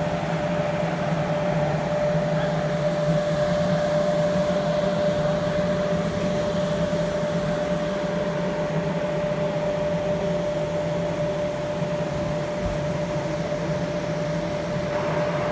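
Water pump running with a steady machine hum and a high held note over an even hiss.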